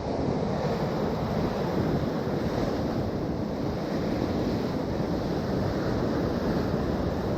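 Steady wind rumbling on the microphone over the wash of sea waves.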